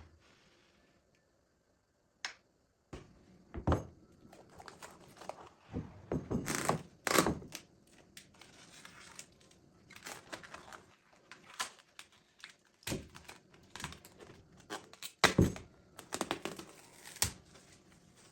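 Kitchen food-preparation sounds: irregular knocks and taps of things being set down and handled, with crinkling and rustling between them.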